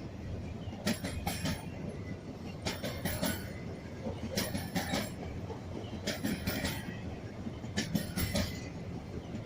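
Train rolling past with a steady low rumble, its wagons' wheels clacking over rail joints in regular paired strikes about every second and a half to two seconds.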